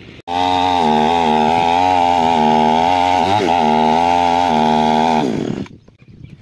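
Two-stroke chainsaw running at steady high revs, its pitch dipping briefly a little past the middle. It starts abruptly about a quarter second in and dies away after about five seconds.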